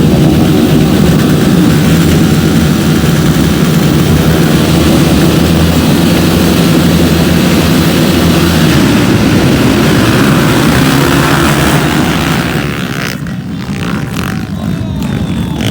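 Motocross motorcycle engine noise, loud and holding a fairly steady pitch, then fading about twelve seconds in.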